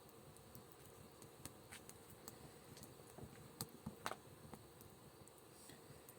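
Small wood fire crackling faintly, with scattered soft pops and ticks; the loudest few come about four seconds in.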